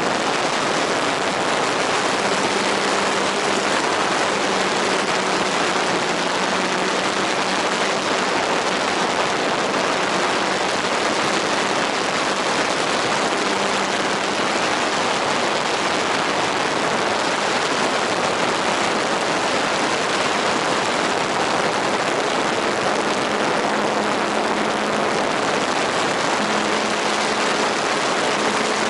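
Steady rushing noise with a faint hum underneath that shifts slightly in pitch now and then, fitting a radio-controlled model airplane's motor heard at a distance.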